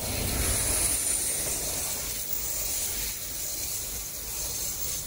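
Diesel-hauled regional passenger train passing at speed: a steady rush of wheels on rail and air, easing slowly as the train moves away. A faint high whine glides down in pitch about half a second in.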